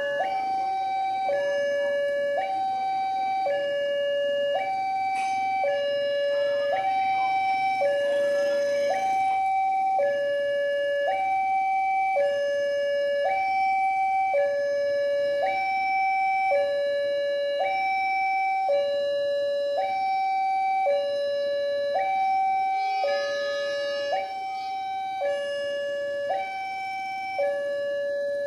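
Electronic two-tone hi-lo siren, alternating evenly between a higher and a lower note about once a second.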